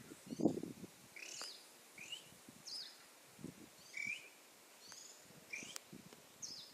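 Swinhoe's white-eyes calling: short, thin, curved chirps repeated about once a second. A few soft low thumps sound underneath, the loudest about half a second in.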